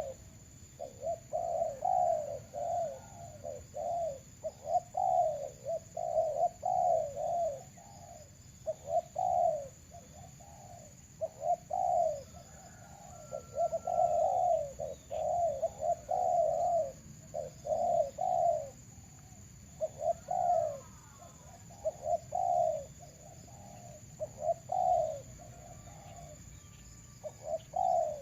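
Doves cooing in repeated phrases, decoy birds and wild birds calling against each other, with faint chirps of small birds in the background.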